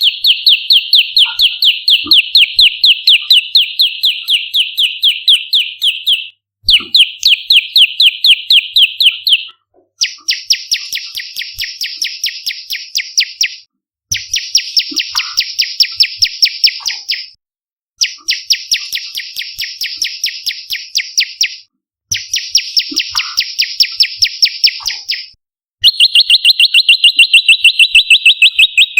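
Prenjak lumut song: loud, rapid trills of evenly repeated high notes, several a second. They come in about seven bursts of three to four seconds, with short breaks between them. The middle bursts sound brighter and wider in pitch than the first and last.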